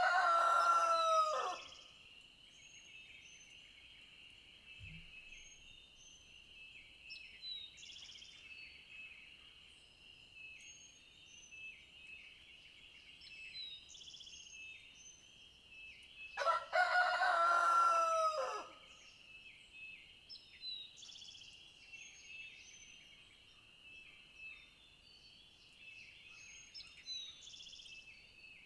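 A rooster crows twice, each crow about two seconds long: one is already sounding at the start and the other comes about 17 seconds in. Under it there is a steady high-pitched drone with scattered short high chirps.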